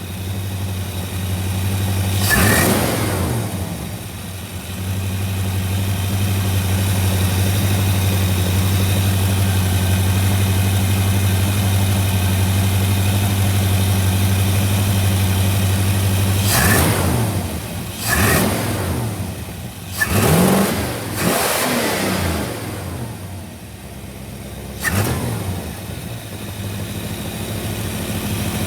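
Rebuilt carbureted engine with Vortec heads and ram's-horn exhaust manifolds idling steadily, with about six quick throttle blips that rise and fall in pitch: one about two seconds in and a cluster between about 16 and 25 seconds in.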